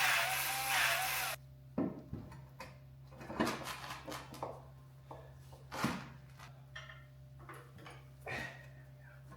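Scattered metal clinks and knocks of hand work on a wood splitter's wheel, about a dozen irregular taps and clanks. It follows a short hiss with a wavering tone that cuts off about a second and a half in.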